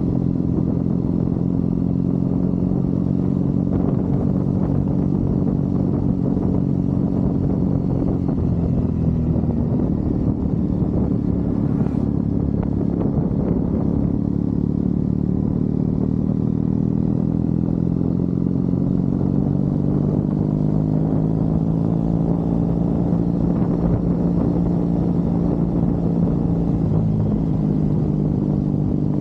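Triumph Bonneville parallel-twin motorcycle engine running under way. The engine note drops briefly about eight seconds in, then climbs gradually through the second half before easing near the end.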